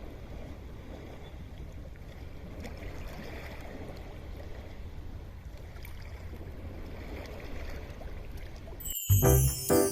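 Steady outdoor ambience: a low wind rumble on the microphone with a soft even rush of noise. About nine seconds in, piano music starts abruptly and is much louder.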